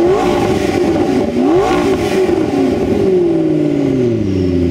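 McLaren MP4-12C's twin-turbo 3.8-litre V8 revved at standstill, heard at the exhaust tips. A held rev dips, a second quick rev rises about a second and a half in, and from about three seconds in the revs fall slowly back toward idle.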